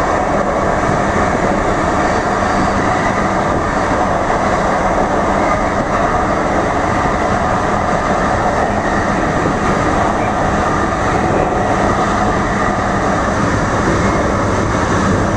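DART light rail train running at speed, heard from inside the car: a steady, even rumble of wheels on the rails.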